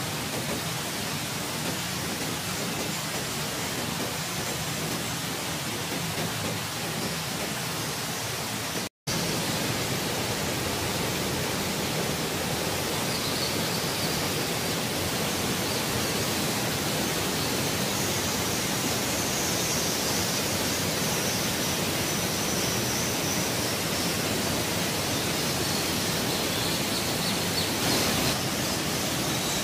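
Steady rushing of a waterfall pouring into a pool inside a deep sandstone sinkhole. It breaks off for an instant about nine seconds in and then carries on a little louder.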